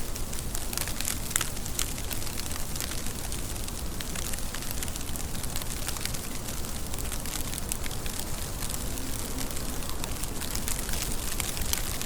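Steady rain with a constant hiss, and many separate drops ticking sharply through it.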